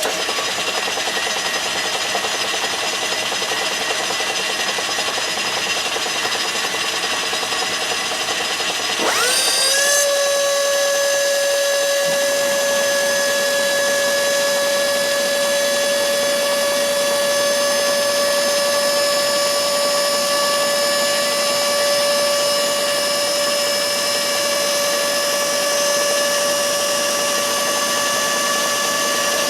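Harbor Freight micro pencil grinder, a small electric die grinder used as a lathe tool post grinder, running with a high-pitched whine as its stone grinds a lathe center. About nine seconds in, a lower motor whine rises in pitch and then holds steady, and the sound gets a little louder.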